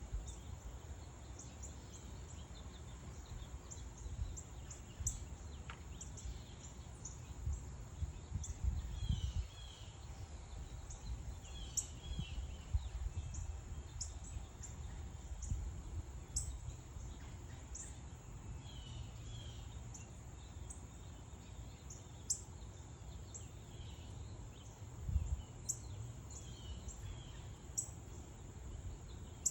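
Wild birds giving short chirps and calls now and then over a steady high insect drone, with low rumble that swells twice.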